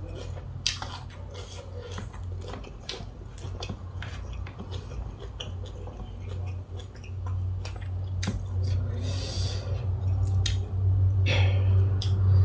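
A person chewing and biting into nam tok grilled-beef salad, with many short wet clicks and crackles of eating and small utensil clicks, over a steady low hum.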